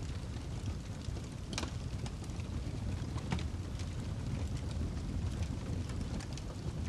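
Wood log fire burning in a fireplace: irregular sharp crackles and pops over a steady low rumble, with two louder pops about a second and a half in and just over three seconds in.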